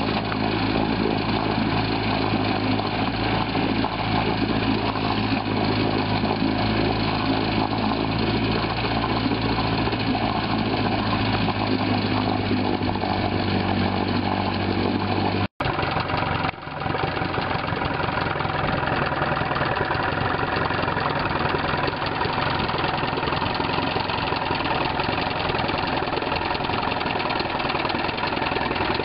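35 hp Gale two-stroke outboard motor running steadily. About halfway through the sound cuts out for an instant and resumes with a changed tone.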